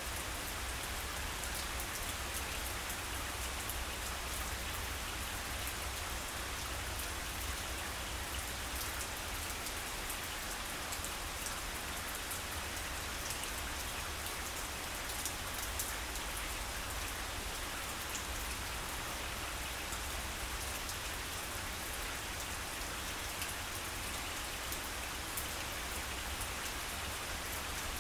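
Steady rain falling on grass, with many individual drops ticking over an even hiss, and a low steady rumble underneath.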